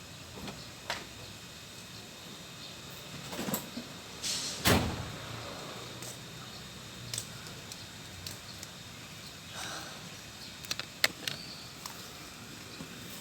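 Metal knocks and clicks from handling a van's body panel. About four seconds in, a short sliding rush ends in one heavy thud, the loudest sound, and a quick cluster of sharp clicks comes near the end.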